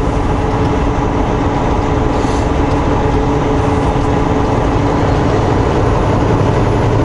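A semi truck's engine and road noise heard from inside the cab while driving: a steady drone with a few steady hum tones.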